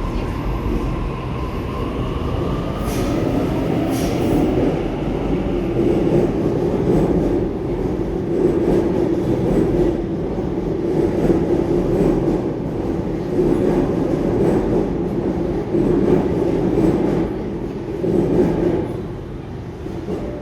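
Sydney suburban electric train moving along the station platform: a motor whine glides in pitch over the first few seconds over a steady rumble of wheels on rail.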